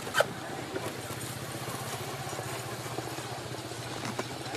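A steady low mechanical hum, like an engine running at idle, with one sharp click just after the start.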